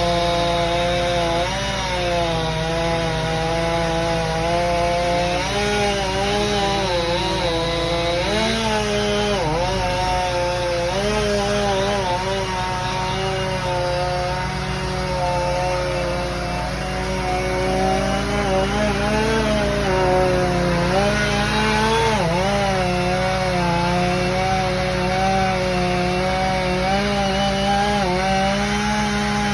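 Chainsaw running under load and cutting wood, its engine note wavering and dipping as the chain bites, most sharply about ten and twenty-two seconds in.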